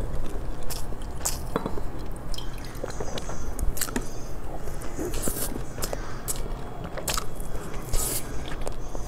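Close-up mouth sounds of a person biting and chewing soft sponge cake, with many short sharp clicks at irregular intervals over a low steady hum.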